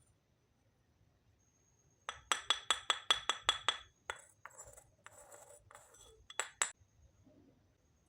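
Small hard pieces of a miniature toy kitchen set clinking together: a quick run of about eight sharp ringing clinks about two seconds in, a stretch of rustling handling, then two more clinks.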